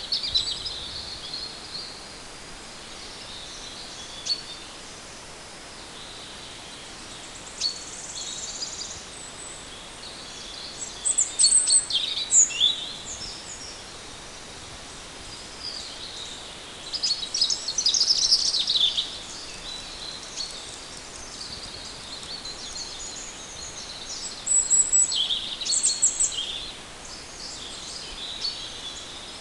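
Small forest songbirds singing and chirping: high twittering phrases come in bunches every few seconds, the busiest near the middle and again near the end, over a steady faint background hiss.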